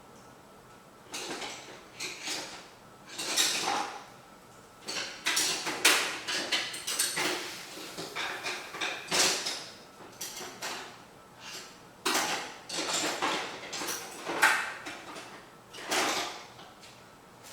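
Metal hand tools and bits clinking and clattering in irregular bursts, like rummaging through a tool drawer.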